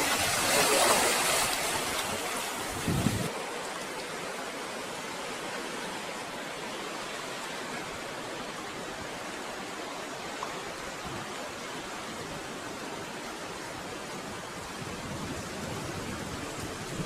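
Steady rushing noise with no distinct sounds in it. It is louder and hissier for the first three seconds, then changes abruptly to a duller, even hiss.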